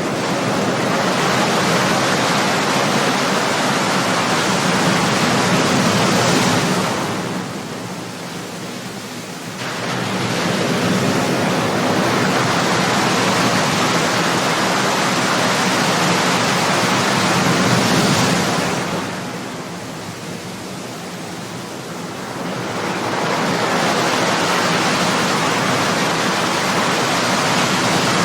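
Ocean surf: waves breaking and washing ashore in a continuous rush, which eases off twice before building again.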